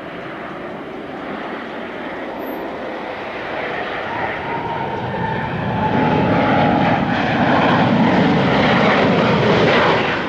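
Jet airliner's engines rushing loudly as the plane passes close, swelling over the first six seconds with a faint whine, then cutting off suddenly.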